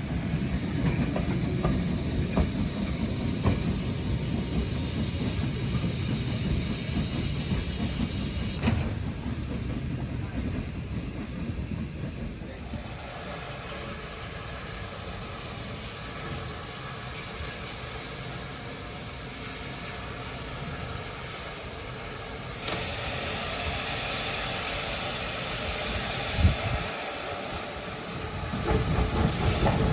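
Steam locomotive: a low rumble of the train for the first dozen seconds, then a steady hiss of escaping steam from about twelve seconds in.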